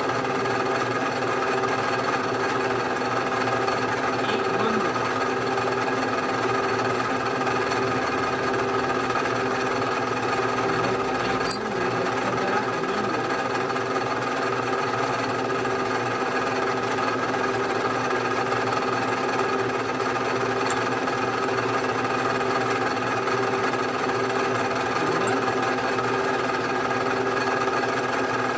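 Bridgeport milling machine running steadily, with one brief click partway through.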